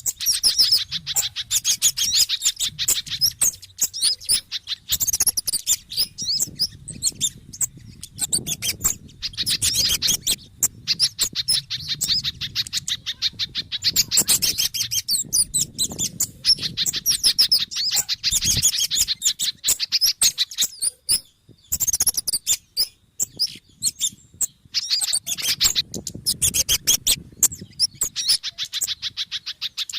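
Bird-lure recording of noisy, rapid-fire bird calls mixing kemade, sogon and pijantung (spiderhunter) chatter. The quick high chirps come in dense runs separated by short pauses.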